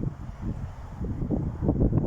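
Wind buffeting the microphone: an uneven, gusting low rumble that grows stronger in the second half.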